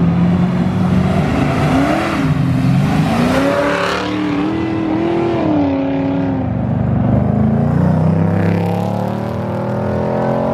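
A performance car's engine revving hard as the car accelerates away. Its pitch climbs and drops several times, with a rush of exhaust noise during the hardest pulls.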